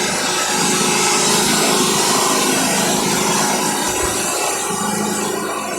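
Wood-Mizer band sawmill cutting through a walnut log: the band blade hisses through the wood over the steady hum of the mill's motor, easing off a little near the end.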